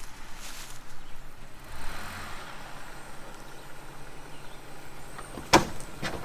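Jeep engine running at low revs while crawling over rock. About five and a half seconds in, a sharp bang, followed by a smaller knock, as the Jeep's rock slider strikes the rock.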